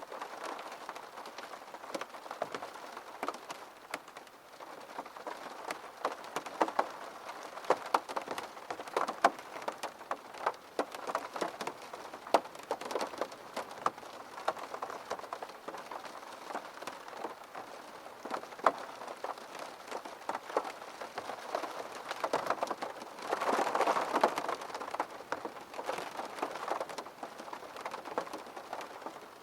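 Rain pattering on a window pane: a steady hiss of rain with many irregular sharp drop taps, and a short louder rush of heavier rain about three quarters of the way through.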